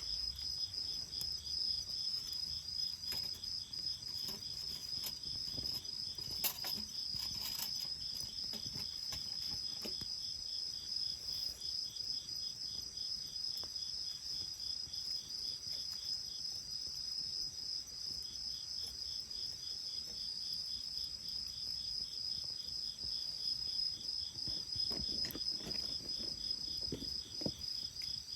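Steady high, rapidly pulsing trill of insects, most likely crickets. A few sharp crackles from the bonfire come about six to eight seconds in and again near the end.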